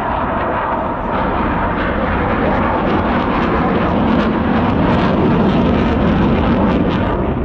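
Fixed-wing military aircraft flying past with a loud rushing engine noise that swells to a peak about five seconds in, then eases slightly.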